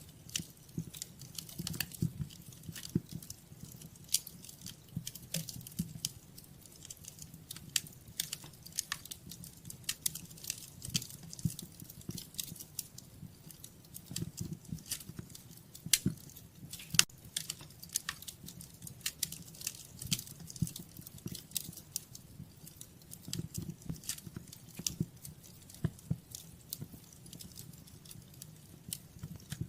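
Wood fire crackling in a fireplace: irregular sharp pops and snaps over a soft low rumble of flame.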